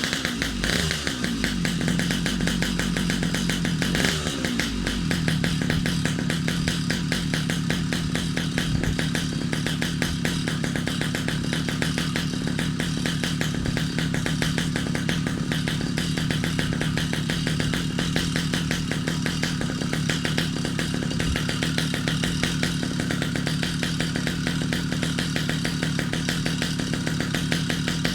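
Motorized bicycle's small engine running: the revs drop twice in the first few seconds, then it idles steadily.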